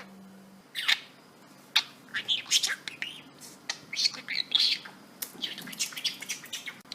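Pet budgerigar chattering: a run of short chirps and squawks with quick changes of pitch, broken by brief pauses.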